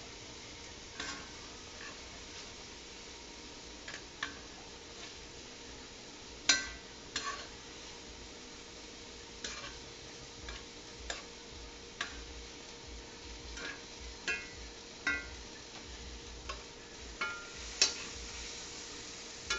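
Sugar syrup at a rolling boil in a saucepan on the stove: a steady low hiss with scattered sharp clicks and taps, roughly one a second, louder ones about a third of the way in and near the end.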